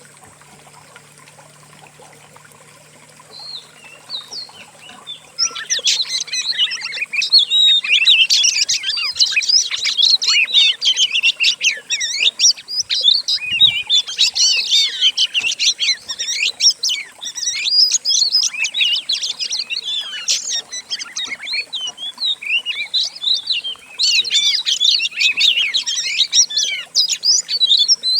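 Several songbirds' songs mixed into one dense, rapid chattering stream of chirps and trills, as used in a masteran song-training recording for oriental magpie-robins. It starts about five seconds in after a nearly quiet opening and dips briefly near the end before resuming.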